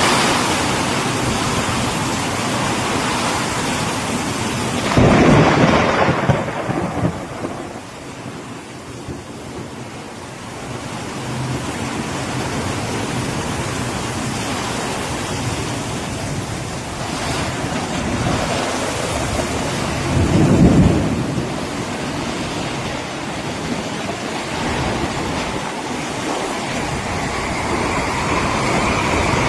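Heavy rain in a windstorm, a steady rushing hiss, with two loud low rumbles, one about five seconds in and one about twenty seconds in.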